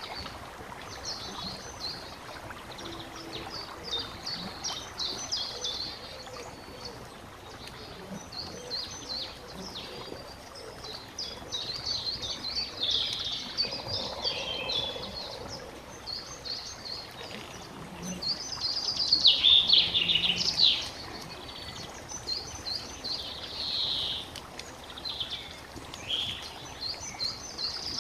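Several songbirds singing and chirping in overlapping phrases over a steady background rush, with the loudest burst of song about two-thirds of the way through.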